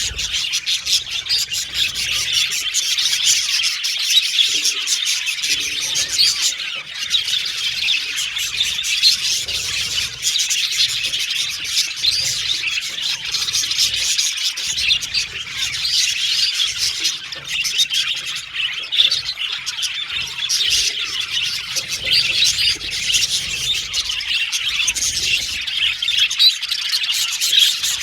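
Budgerigars chirping and warbling continuously, many short, rapid, overlapping calls.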